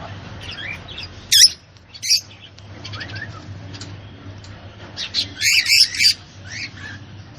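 Birds chirping and squawking: short gliding chirps, loud sharp calls about a second and a half and two seconds in, and a quick cluster of calls about five to six seconds in.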